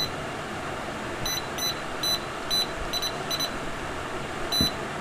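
About eight short, high-pitched electronic beeps at irregular intervals from a Whirlpool washing machine's control-board buzzer, over a steady background hiss. The freshly repaired board is powered up and responding during testing.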